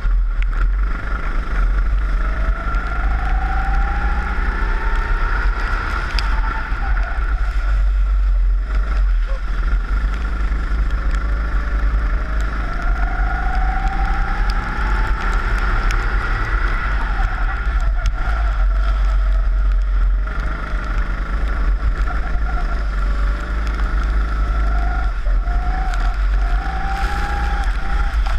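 Four-stroke rental kart engine heard onboard, revving up through the gears along the straights and dropping back into the corners several times over, over a heavy low rumble on the microphone.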